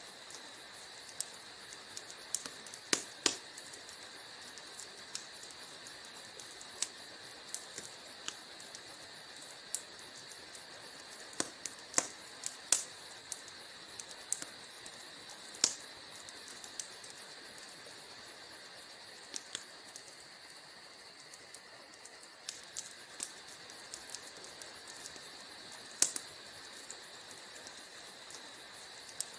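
Wood fire burning in a fireplace: a soft steady hiss with irregular crackles and sharper pops of burning logs, the loudest pops scattered a few seconds apart.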